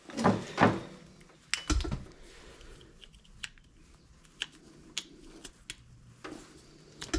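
Scattered clicks and light knocks of small metal parts and hand tools being handled on a workbench, with one heavier knock just under two seconds in.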